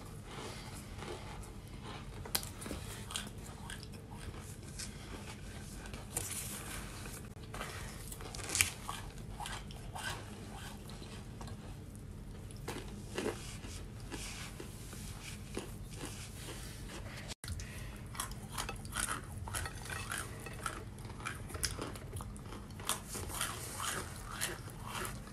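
Baked cornstarch chunks being bitten and chewed: a steady run of small crunches and crackles, with one sharper crack about eight and a half seconds in.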